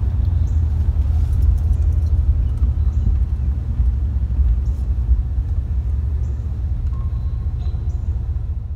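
Turbocharged 4.9-litre V8 of a 1980 Pontiac Trans Am Indy Pace car running as the car creeps along at low speed. It is a steady low rumble heard from inside the cabin.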